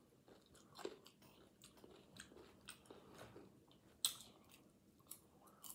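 Quiet, close-miked chewing and crunching of salsa-dipped tortilla chips: soft, irregular crunches, with a sharper crunch of a bite just after four seconds.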